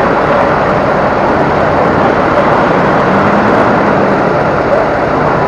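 Steady, loud drone of a semi truck on the move, engine and road noise together with a low hum underneath.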